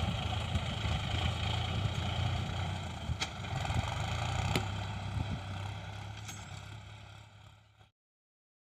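Mahindra Yuvo Tech+ 415 DI tractor's diesel engine running steadily, with a couple of sharp clicks along the way. It fades and cuts off to silence near the end.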